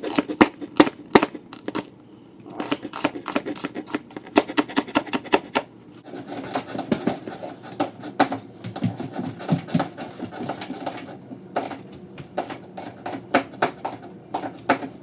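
Knife chopping vegetables on a cutting board: runs of quick, sharp taps several a second, with short pauses and some scraping between them.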